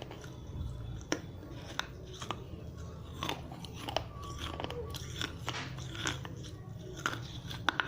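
Dry red clay diya being bitten and chewed, with irregular sharp crunches and crackles as the clay breaks between the teeth.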